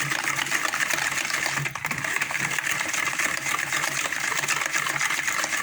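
A whisk beating the liquid basbousa mix of eggs, vanilla, lemon zest and milk in a bowl: fast, continuous clinking and sloshing against the bowl.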